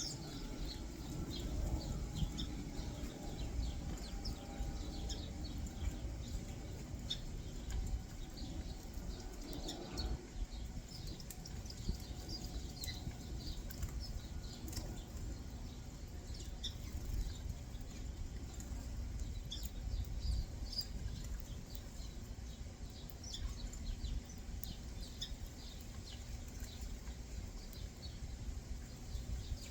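Small backyard birds chirping: many short, high chirps scattered throughout over a steady low rumble.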